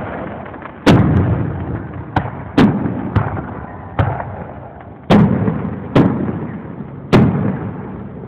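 Aerial fireworks shells bursting: a string of about eight sharp booms, each trailing off in a long rolling echo. The loudest come about a second in, around five seconds in and near the end.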